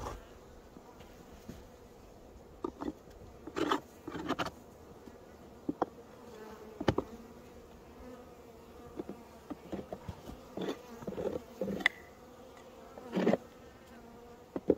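Honeybees buzzing around an open hive, a faint steady hum, with sharp knocks every second or two as the hive is handled.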